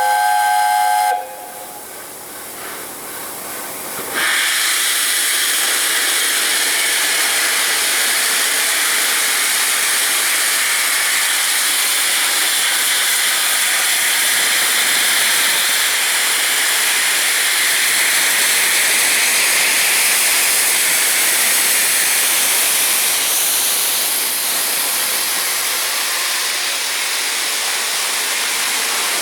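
Steam whistle of A1 Pacific locomotive 60163 Tornado, sounding briefly at the very start. After a few seconds of quieter sound, a loud steady hiss of escaping steam sets in about four seconds in and holds.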